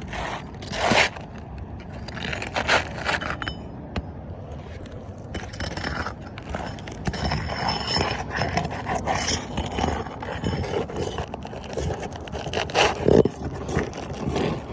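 A roof snake scraping and catching under roofing shingles as a shingle is worked loose, in irregular strokes with a few sharper knocks.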